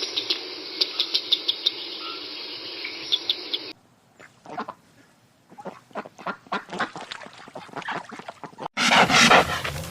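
Ducks quacking, many short calls in quick succession, heard across two recordings spliced one after the other. Near the end a louder, different animal recording cuts in.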